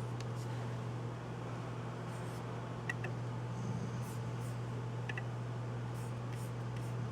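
A few scattered, sparse clicks from a computer's mouse and keys, over a steady low hum.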